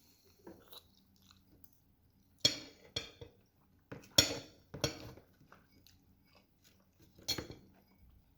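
Cutlery clinking against a dish about five times while noodles are eaten, with soft chewing between the clicks.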